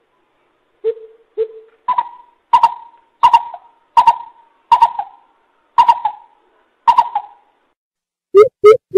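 Coucal (bubut) calling, a series of deep hooting notes. Two low hoots are followed by about eight higher, louder hoots, evenly spaced under a second apart. After a short pause, a new run of low hoots begins near the end.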